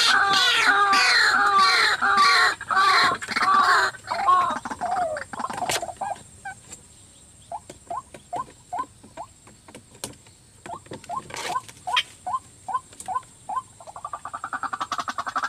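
White-breasted waterhen calling: loud, fast-repeated croaking notes that fade out about five seconds in, then a slower series of short single notes, before the loud repeated calling builds up again near the end.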